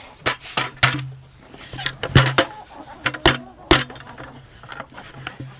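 A string of sharp, irregular clicks and knocks, about a dozen, some with a low hum under them.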